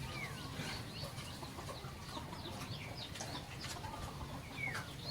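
Birds chirping in short calls, several of them falling in pitch, over a low steady rumble.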